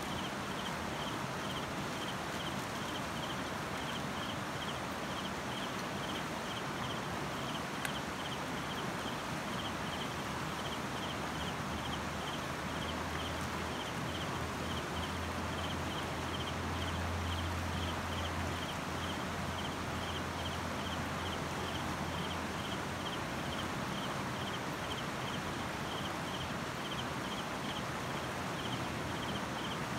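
Steady rushing noise like flowing creek water, with a faint high chirp repeating evenly about three to four times a second.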